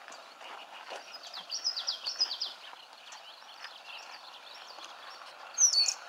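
Small bird singing: a quick run of about seven high down-slurred notes about a second in, then one loud high note near the end, over a steady marsh background.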